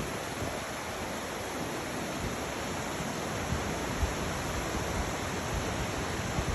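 Steady rushing of Glade Creek's water spilling over the falls by the gristmill, an even hiss with an uneven low rumble beneath.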